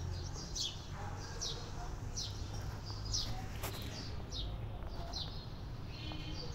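A small bird chirping over and over: short, high chirps that fall in pitch, about every two-thirds of a second, over a steady low background rumble. A single sharp click comes about halfway through.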